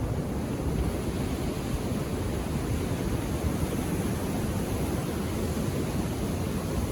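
Ocean surf on a beach: a steady wash of waves, even and unbroken, with most of its weight low.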